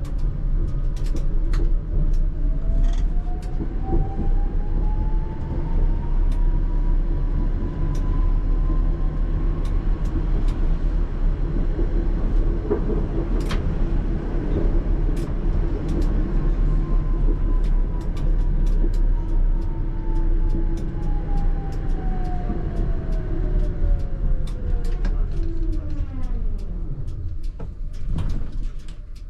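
ČKD Tatra T3R tram running on rails: the traction motor whine climbs in pitch as it accelerates, holds through a steady stretch, then falls away as the tram brakes almost to a stop near the end. Rumble and sharp wheel-on-rail clicks run underneath.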